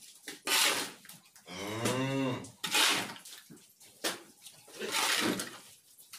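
A cow moos once, a low call lasting about a second, starting about a second and a half in. Around it come repeated scraping strokes of manure being scraped out from under the cows, roughly every two seconds.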